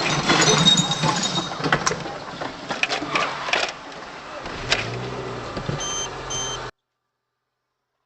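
Road and car noise from a dashcam, with scattered knocks and clinks. It cuts off suddenly to complete silence about two-thirds of the way through.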